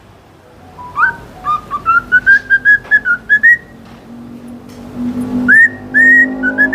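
A pet bird whistling: a run of short notes about four a second, climbing gradually in pitch, then after a pause a few longer whistled notes near the end. A low steady hum sits underneath in the second half.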